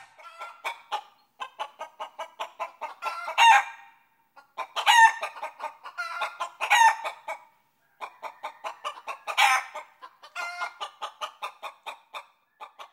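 Calls from a bird: quick runs of short pitched notes, about five or six a second, broken by several louder, longer calls.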